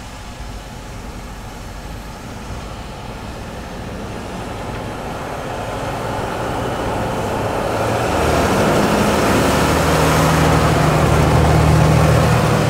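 Large farm tractor's diesel engine approaching and growing steadily louder, its steady engine note becoming clear about two-thirds of the way in.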